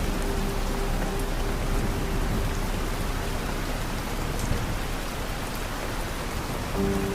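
Steady rain falling, an even hiss with scattered faint drop ticks. A few soft low held tones sound in the first second and again near the end.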